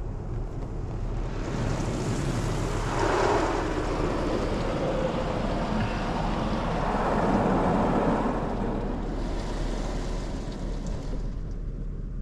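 High-pressure water spray from the PDQ LaserWash 360 touchless car wash's rotating arm hitting the car, heard from inside the cabin. The spray swells about a second in, stays strong as the arm passes over, and fades near the end.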